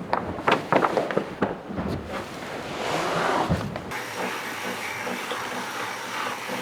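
Sharp knocks and clatters of gear aboard a racing sailboat, with wind and water noise, then a rush of noise. About four seconds in, the sound changes abruptly to a quieter, steady background.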